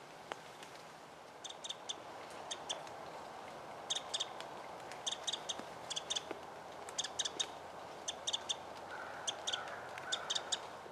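Small bird calling with quick groups of two or three short, high chip notes, repeated about every second.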